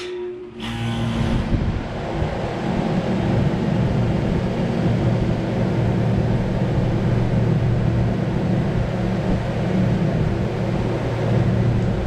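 1984 Carrier 'brown round' 2.5-ton central air conditioner condenser unit starting up: a click, then the compressor and condenser fan come on about half a second later, build over a couple of seconds, and settle into a steady running hum with a low electrical drone.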